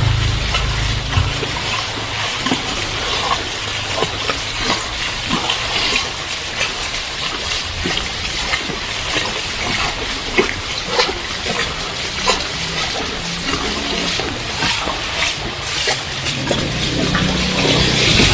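Heavy rain pouring, with dense, irregular splashing and dripping of drops on water and hard surfaces. A low rumble of a passing vehicle comes in near the end.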